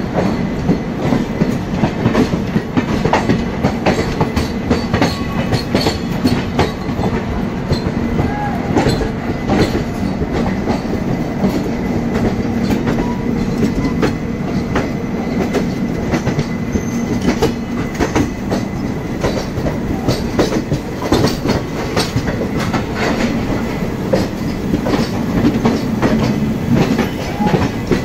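Rumble and rapid clickety-clack of express train wheels running over the rails at speed, heard through an open coach door as another passenger train's coaches pass close by on the adjacent track. Dense clicking runs through a steady rush throughout.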